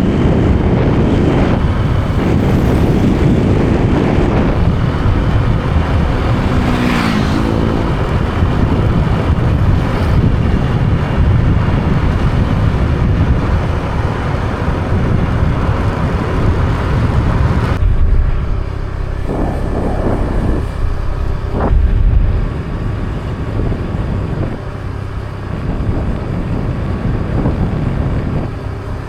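Motorbike engine running while riding, with wind buffeting the microphone.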